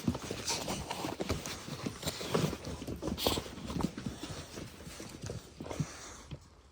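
Dogs moving about: irregular tapping and scuffling, with a couple of short breathy rushes in the middle.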